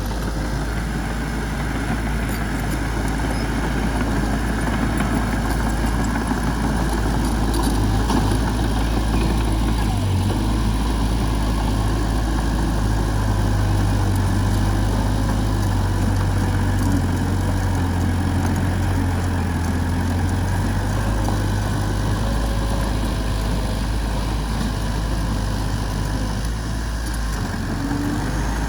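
Heavy diesel machinery engine running steadily with a deep low hum, which grows stronger for a few seconds around the middle.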